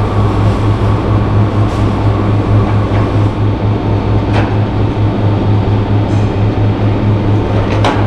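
Steady low machine hum with a rough noisy texture, broken by a few sharp clicks, one about two seconds in, one midway and one near the end.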